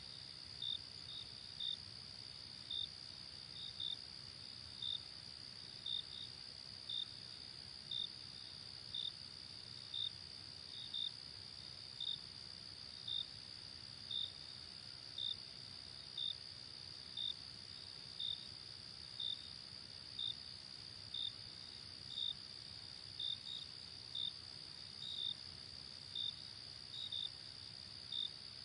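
Night cricket chorus: a steady high trill, with a louder cricket chirping in short pulses about once a second.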